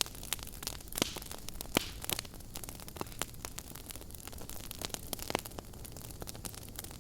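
Wood fire crackling in a fireplace: irregular sharp pops and snaps over a steady low rush of burning, with two louder snaps in the first two seconds.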